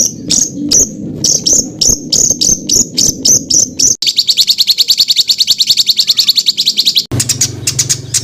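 Recorded songbird calls in abruptly spliced segments: a run of sharp, high, down-sweeping notes about four a second, then a fast, dense trill about ten notes a second, then from about seven seconds in another rapid series of notes over a low hum.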